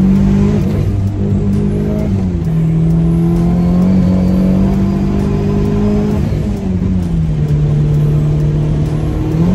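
Turbocharged Honda engine heard from inside the cabin, running hard under load. Its note holds steady, then drops in pitch about two seconds in and again about six and a half seconds in.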